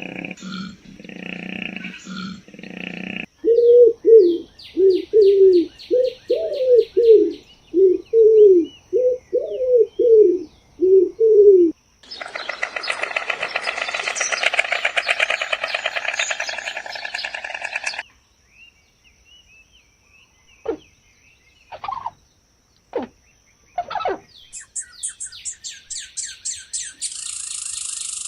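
A run of animal calls: about a dozen short, evenly repeated pitched calls, then about six seconds of dense, continuous chatter, then scattered short calls and high, rapid chirps near the end.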